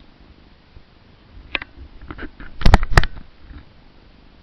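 A few sharp clicks and knocks, the loudest two close together about three seconds in, from undoing the hood pins and latch to open a car's hood.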